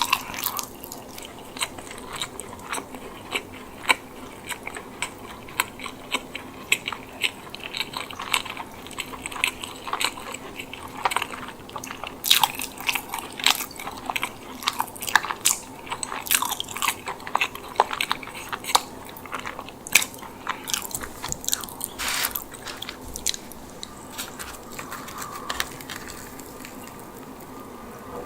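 Close-miked eating of a chicken bake: biting and chewing baked bread filled with chicken and mozzarella, with many sharp crackling clicks that come thickest in the middle and thin out near the end.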